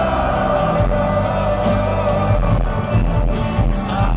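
Rock band playing live: a singer holds one long, slightly wavering note over bass and drums, with a cymbal crash near the end.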